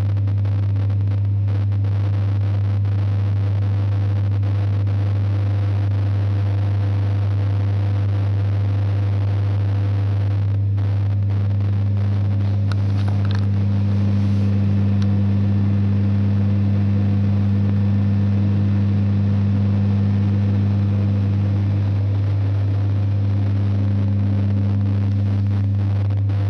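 ED9M electric train's motor car giving off a loud, steady low hum, the hum its owners count among the train's biggest shortcomings. About halfway through, a second, higher hum joins in, breaks off briefly near the end, then comes back.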